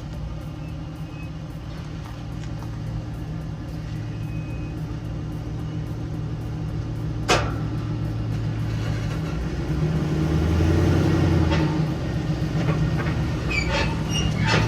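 LS V8 swapped into a box Chevy, running steadily through its exhaust, getting louder about ten seconds in, with one sharp click about halfway through.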